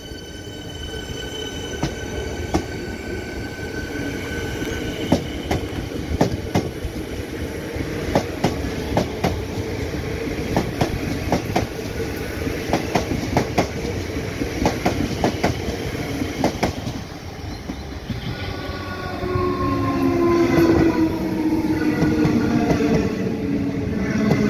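EDI Comeng electric suburban trains running past on the track: a steady rumble with sharp wheel clicks over the rail joints through the middle. In the last few seconds a train passes close with a whine that falls in pitch and grows louder.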